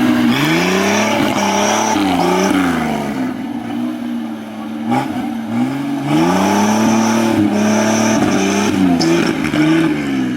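An off-road 4x4's engine revving up and easing off several times, its pitch climbing and falling with the throttle, with a quieter spell in the middle and a single sharp knock about five seconds in.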